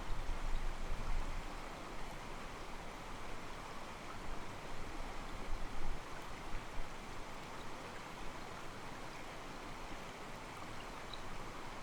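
Mountain stream flowing and sloshing against rocks: a steady, soft rush of water with small swells in loudness.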